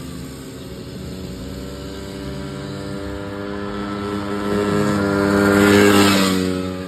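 Dirt bike engines running, one growing louder as it passes close about six seconds in, then fading away.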